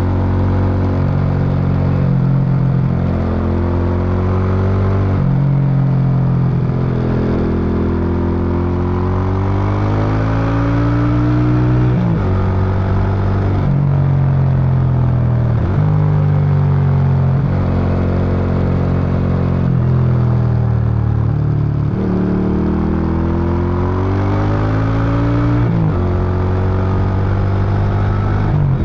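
Suzuki Intruder VS800's V-twin exhaust under way: the engine note climbs and falls with the throttle, with several sudden steps in pitch at gear changes.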